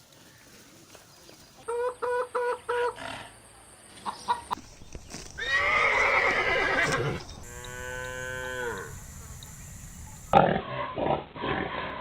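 A string of farm animal calls from separate short clips: four quick, evenly pitched calls, then a loud harsh call, then a call that falls in pitch, and a run of short loud calls near the end.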